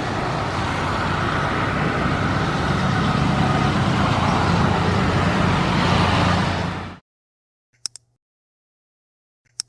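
Boeing 787 jet engines on takeoff: a steady, loud, deep rumble that cuts off abruptly about seven seconds in. Two brief faint clicks follow in the silence.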